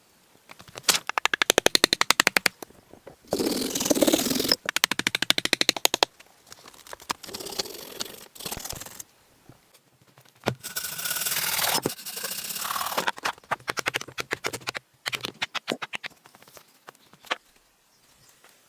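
Rapid scratchy scraping in several runs of one to three seconds with short pauses between them, each run made of many quick clicks a second, like a tool scraping or rasping across hard material.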